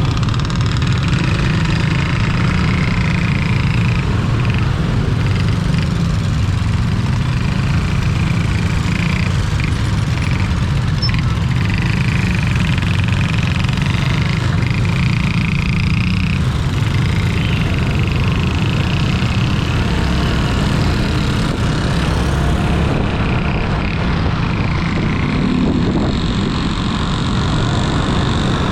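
Steady vehicle engine and road noise, with a heavy low rumble of wind on the microphone while travelling along a road.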